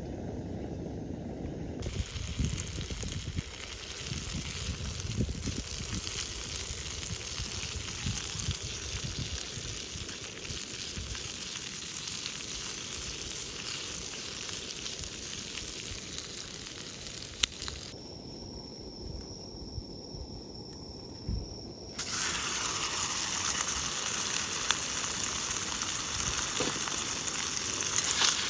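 Food sizzling as it fries, a steady hiss that drops quieter for a few seconds about two-thirds of the way through and then comes back louder.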